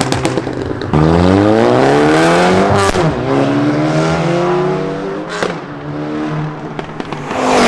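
Car engine accelerating hard, its pitch climbing and dropping back at two quick gear changes. Near the end there is a loud rush of noise.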